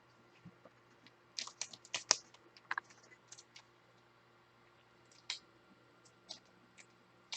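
Trading cards and their packaging being handled: faint light clicks and taps, a quick cluster of them about a second and a half in, then a few single clicks spread out to the end.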